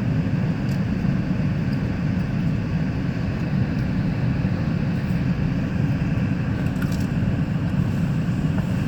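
Steady low rumble inside a moving GO Transit commuter train coach, with a few faint ticks over it.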